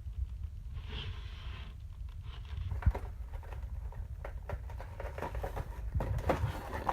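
A cardboard model box being handled: scattered light taps and rustles, with a short sliding rub about a second in.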